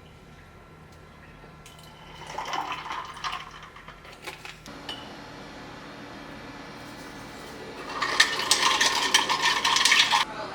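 Kitchen clatter of dishes and utensils being handled about two seconds in, then a steady hiss that swells near the end into a louder rush of liquid noise with sharp clicks for about two seconds.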